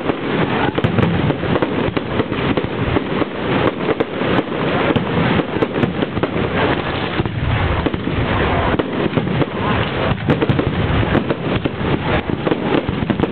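Fireworks display going off in a dense, continuous barrage of bangs and crackles. The sound is dull and thin, recorded at a low-quality camera setting that cuts off the high end.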